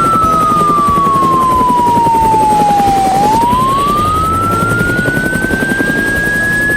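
Cartoon police car siren in a slow wail: one tone that falls for about three seconds, then turns and rises again, over a dense low rumble.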